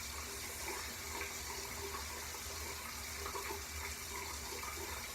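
A steady hiss with a low hum underneath, and a few faint soft rustles.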